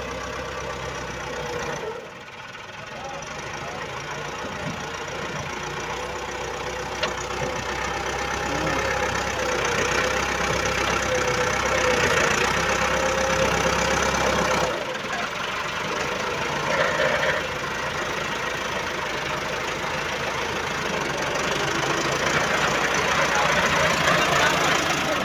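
Massey Ferguson 240 tractor's diesel engine running steadily under load with a knocking diesel clatter. The note dips briefly about two seconds in and again just before the middle.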